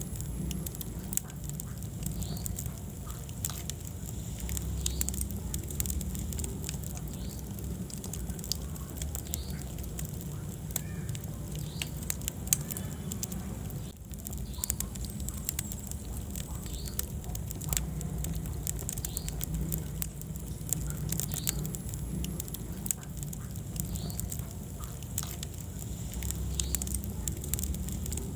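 Wood fire burning in a fireplace: many sharp, irregular crackles and pops over a steady low rumble of flame.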